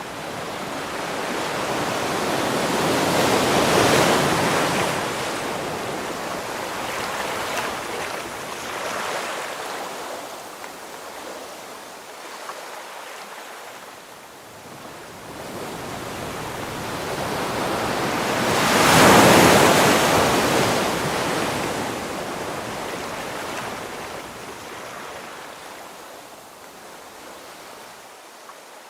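Ocean waves breaking on a shore: two large waves crash about four seconds in and again near the middle, each swelling and then fading into a long hissing wash of surf.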